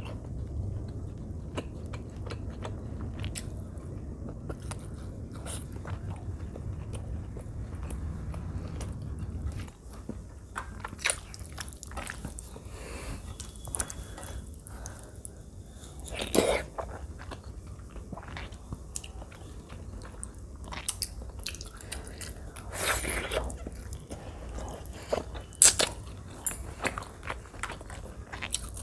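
Close-miked chewing of a mouthful of rice and chicken curry eaten by hand: a steady low chewing rumble for about the first ten seconds, then scattered wet mouth clicks and smacks with a few louder crunchy bites.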